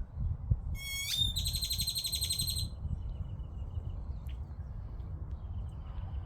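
A bird calls once about a second in: a quick rising run of notes, then a rapid buzzy trill lasting about a second and a half. A steady low rumble runs underneath.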